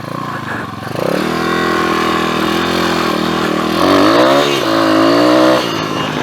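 PitPro 140cc pit bike's single-cylinder four-stroke engine under way, running steadily from about a second in, rising and falling in pitch as it is revved about four seconds in, then easing off near the end.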